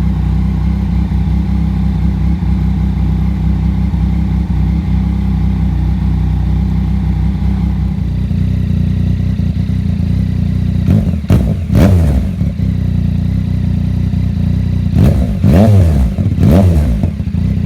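2018 Yamaha MT-09's inline-three engine idling through an M4 RM1 full carbon exhaust while it warms up, then blipped in short revs, two about eleven seconds in and three more around fifteen to seventeen seconds in.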